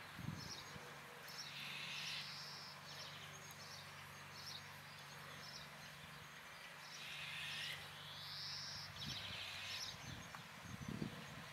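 Songbirds chirping and calling in the background, in a few short bursts of song. A faint steady low hum lies underneath and stops about nine seconds in.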